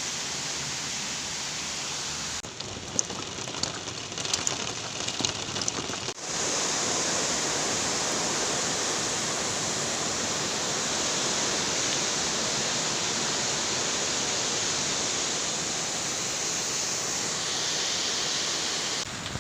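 Heavy rain falling steadily. Between about two and six seconds in it thins, with sharp drops striking close by, then the downpour returns louder and even.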